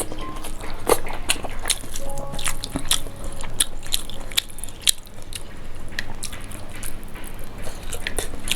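Close-miked chewing and mouth sounds of someone eating soft fish curry, spinach and rice: wet smacking with many quick clicks from the lips and mouth.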